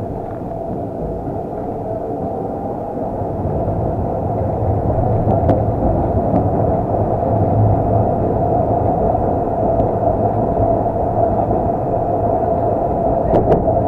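Tram riding along the track, heard from inside the passenger car: a steady low rumble with a whine from the running gear, growing a little louder over the first few seconds. Several sharp clicks near the end.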